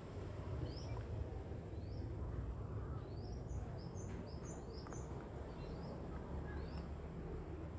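Small birds chirping: short rising chirps, one after another and bunched about halfway through, over a steady low hum.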